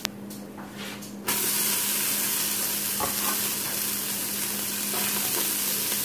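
Diced onions hitting hot oil and garlic in an Instant Pot's stainless steel inner pot on sauté: a faint sizzle jumps suddenly to a loud, steady sizzle about a second in. A metal spoon knocks against the pot now and then as it stirs.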